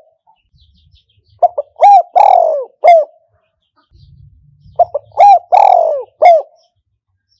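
Spotted dove cooing as a trapping decoy: two call phrases about three seconds apart. Each is a couple of short coos, then a long falling coo and a final short coo. Loud and close.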